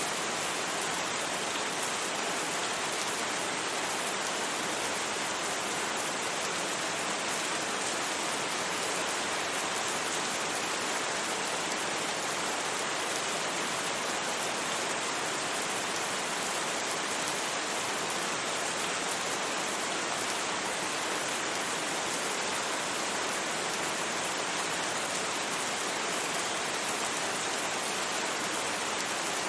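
Steady rain ambience: an even, unbroken hiss of falling rain, blended with white noise, with no distinct drops or thunder.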